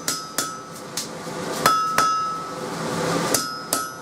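Hand hammer striking steel on an anvil, about six irregular blows, some in quick pairs, each leaving a short metallic ring. The blows are straightening a length of truck coil spring.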